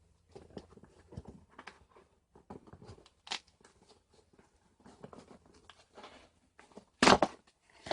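Hands picking, scratching and scraping at a tape-sealed cardboard box, with scattered crinkles and clicks, then a short loud rip of tape and cardboard near the end as the box is torn open.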